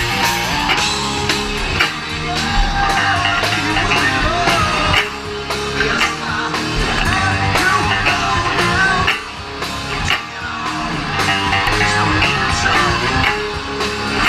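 Live rock band playing with no vocals: an electric guitar lead bending over steady drums and bass.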